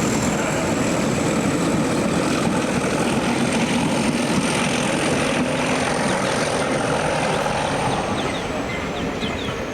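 Heritage diesel locomotive running loud and steady, with a thin high whine. The whine drops in pitch from about eight seconds in as the sound begins to fade.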